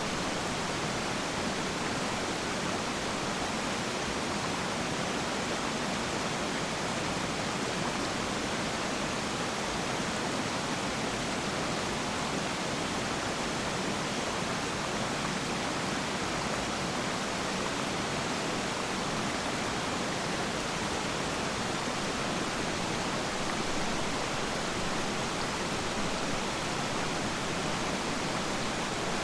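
Steady, even rush of water from Peiran Falls, a waterfall and the stream below it.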